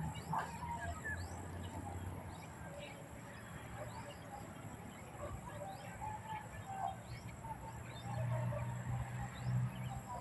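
Many birds chirping at once, a steady scatter of short rising chirps from a flock, over a low steady hum.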